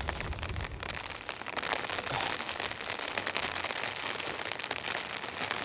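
Light drizzle pattering on a tarp: a steady hiss dotted with many small drop ticks. A brief low rumble comes in the first second.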